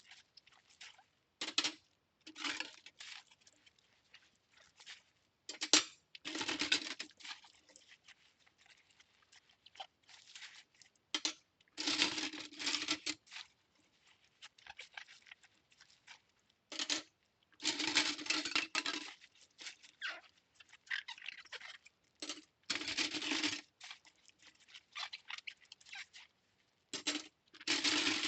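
Hand-washing cutlery: scrubbing and rubbing in bursts of about a second, several times over, with short clicks of metal utensils in the quiet gaps between.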